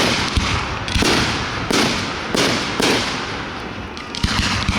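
Fireworks display: about six aerial shells bursting in quick succession, each sharp bang followed by a rumbling echo and crackle.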